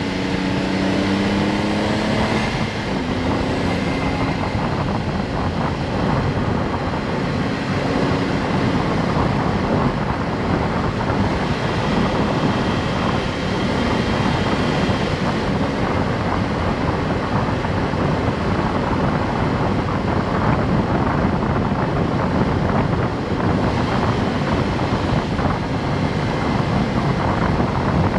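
Honda S660's small turbocharged three-cylinder engine pulling as the car drives, its note rising over the first couple of seconds and then dropping away, followed by steady engine, road and wind noise.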